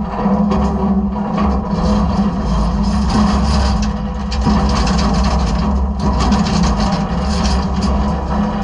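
Side-loader garbage truck running steadily with a low hum, with stretches of crackling and clattering as trash and debris shift and crunch in the hopper.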